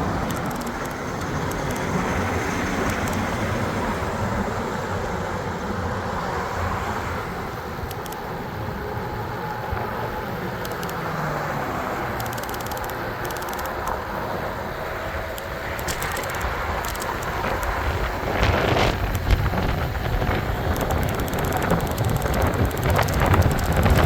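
Wind buffeting the microphone over steady road and traffic rumble while riding an e-bike, with a few sharp knocks or rattles near the end.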